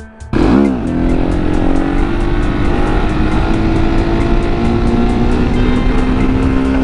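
Motorcycle engine, a 701 supermoto's single cylinder, cutting in abruptly just after the start with a quick rev. It then pulls steadily under way, its pitch rising slowly as it gains speed, over heavy wind rush on the microphone.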